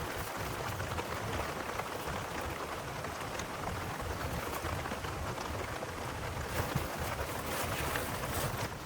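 Rain falling steadily: a constant hiss with scattered sharp drop ticks, over a low, uneven rumble.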